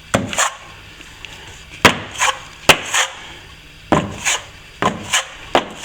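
Plastering knife being worked for a second coat of filler: about six sharp clicks as the blade strikes, each followed shortly by a short scraping stroke.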